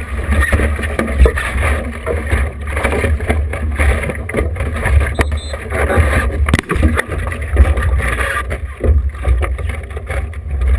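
Wind buffeting the action-camera microphone with a steady low rumble, over water rushing and splashing along a small sailboat's hull under sail.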